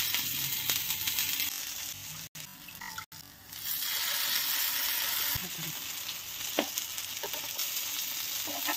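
Green gram and potato cutlets sizzling as they shallow-fry in a little oil on a flat pan, with a steady hiss and a few scattered crackles. The sound drops out briefly twice, around two and three seconds in.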